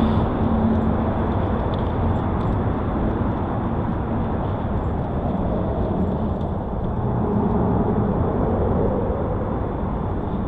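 Steady rush of wind and rolling noise on an action camera's microphone while riding a bicycle.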